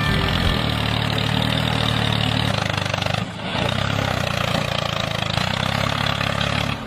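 A small engine running steadily, with a brief drop in level about three seconds in.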